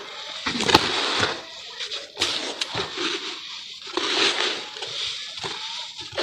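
Charcoal crumbling and breaking apart in water: repeated bursts of wet crackling and splashing with a few sharp snaps, the sharpest about three-quarters of a second in.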